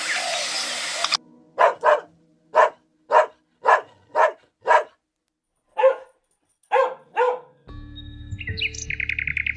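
A dog barking about ten short barks at an even pace, with a brief pause midway. A steady noisy sound cuts off about a second in, and near the end chirping birds start over a low hum.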